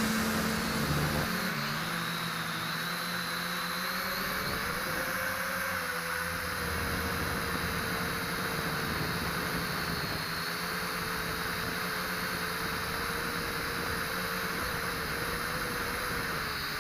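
JJRC H8C mini quadcopter's motors and propellers whining steadily over a hiss of prop wash, with the pitch wavering slightly as the motor speed changes.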